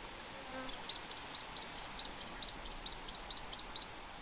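A small bird singing a rapid run of about fourteen identical high chirps, about four or five a second, for roughly three seconds.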